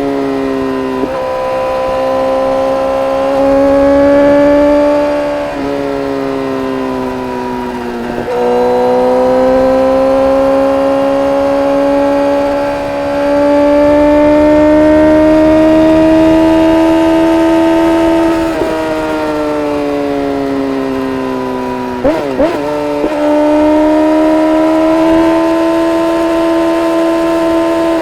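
2010 Honda CBR1000RR Fireblade's inline-four engine running through an Arrow Indy exhaust with the dB killer removed, heard while riding. The note climbs slowly and drops sharply three times in the first eight seconds, as at gear changes. Later it falls away, gives a brief stuttering wobble in pitch and settles to a steady drone.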